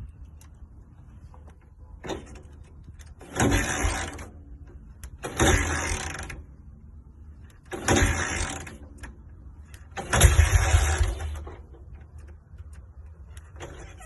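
BSA WM20 motorcycle's single-cylinder side-valve engine revved in four short bursts of about a second each, dropping back to a low idle between them.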